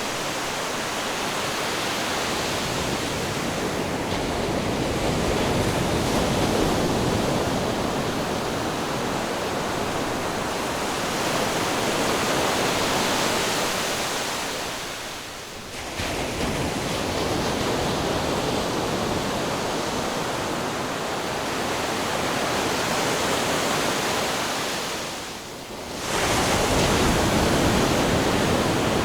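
Ocean surf with a steady rushing wash of waves. It fades briefly about halfway through and again near the end, and each time it comes straight back to full level.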